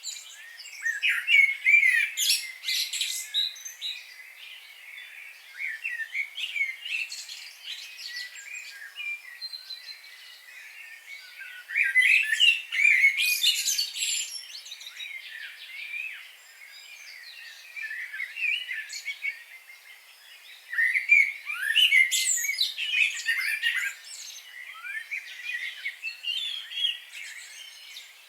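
Several songbirds chirping and singing at once, in short overlapping chirps and trills, with louder flurries about two seconds in, around the middle and a little past two-thirds of the way through.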